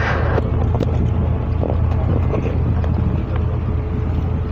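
Tourist boat's engine running steadily under way: a constant low hum with wind on the microphone, and a brief rush of hiss at the very start.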